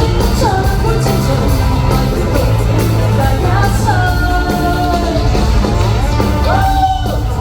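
Live rock band music: a melodic lead line slides between long held notes over steady bass and drums, in a large hall.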